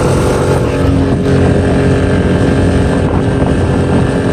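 Tohatsu 6 hp four-stroke outboard running steadily at half throttle, pushing the inflatable dinghy on plane.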